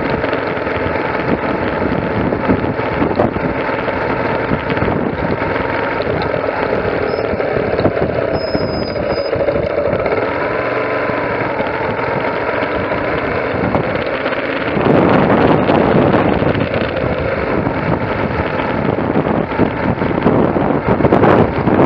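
A motor vehicle's engine running, its pitch rising and falling slowly, with road and wind noise that grows louder about fifteen seconds in.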